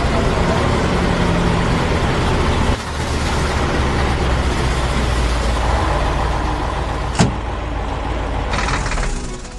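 Vehicle engine running steadily with a low rumble, with a single sharp click about seven seconds in.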